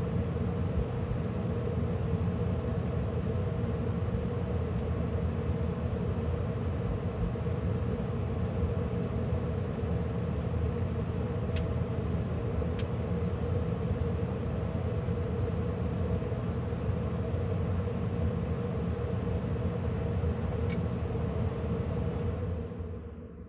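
Carrier gas furnace's blower fan running steadily after the burners have shut off, moving air with a low rumble and a steady hum. Near the end a faint click, then the blower shuts down and starts to wind down.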